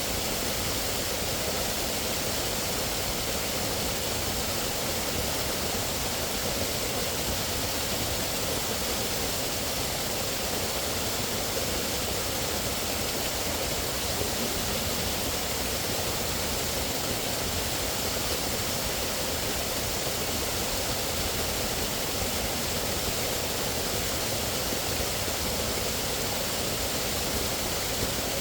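Steady, unbroken rush of flowing water, with no separate sounds standing out.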